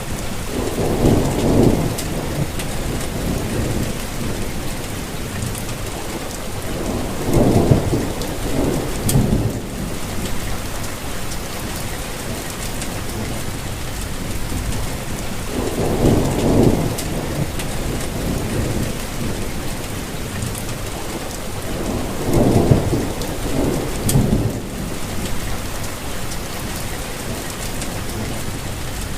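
Steady rain falling, with low rumbles of thunder swelling up four times.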